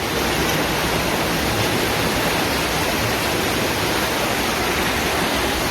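Floodwater rushing past: a steady, loud, dense rush of water.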